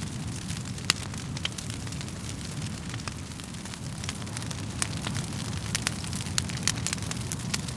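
Wood fire burning in a fireplace, crackling with irregular sharp pops over a steady low rumble of the flames; the loudest pop comes about a second in.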